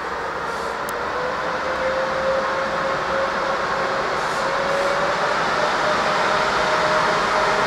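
Electric-hauled passenger train pulling away, with a whine that rises in pitch as it gathers speed over the steady rumble of its wheels, growing louder.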